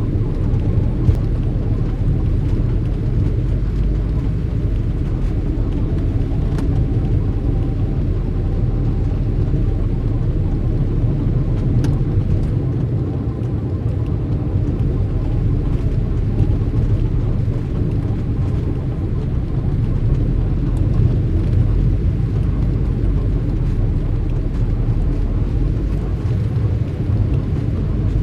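Steady low rumble of passing car traffic, with a few faint clicks.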